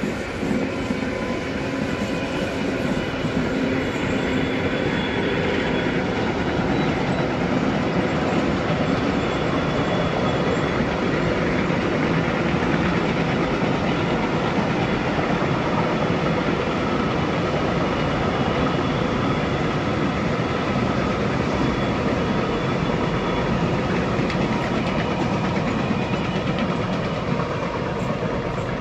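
A long freight train rolling past close by, its wagons giving a steady, loud rumble of wheels on rail with clickety-clack over the joints.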